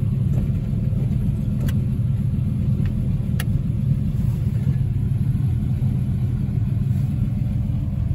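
1963 Studebaker Gran Turismo Hawk's V8 engine idling steadily, a low even rumble heard from inside the cabin, with a couple of faint clicks.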